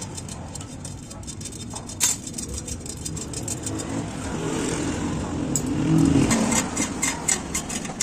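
Road traffic passing, with a motor vehicle's engine swelling about six seconds in. A sharp knock comes about two seconds in, and a quick run of knocks follows near the end.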